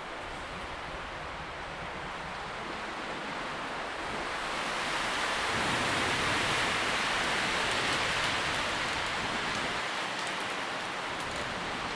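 Wind moving through tree leaves, a steady rustle that swells in a gust about halfway through, then eases a little.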